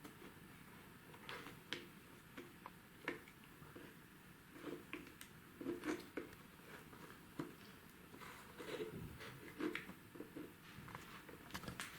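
Faint, irregular clicks and taps of small wooden model-kit parts being handled and pressed together, as a top section is fitted onto a wooden fireplace model.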